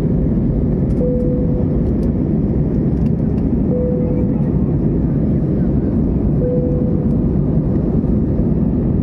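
Airliner cabin noise in flight: a loud, steady rush of engine and airflow noise, strongest in the low range. Three short steady tones sound at even intervals, about two and a half seconds apart.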